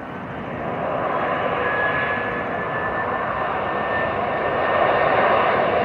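Airbus A340-300's four CFM56 turbofan engines on a landing approach: a steady jet noise that grows louder about a second in as the airliner draws nearer, with a steady high whine running through it.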